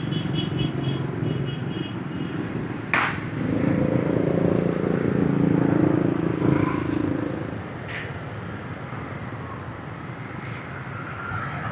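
Busy motorbike traffic heard from a moving motorbike: many small engines running, with a louder engine hum for a few seconds in the middle. A sharp knock comes about three seconds in, and a fainter one a few seconds later.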